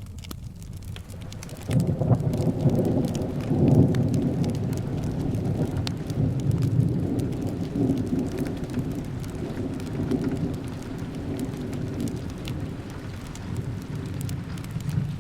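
Rolling thunder over steady rain. The rumble breaks in suddenly about two seconds in, is loudest over the next two seconds, then slowly dies away. Scattered small crackles run through it.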